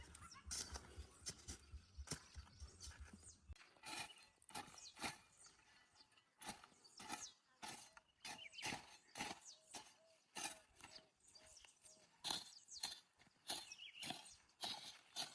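Faint, irregular crunching and rustling of footsteps on dry ground and leaves, a few steps a second.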